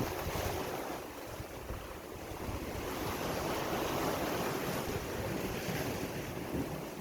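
Sea waves washing onto the shore, the surf easing about a second in and swelling again for several seconds before easing near the end, with wind rumbling on the microphone.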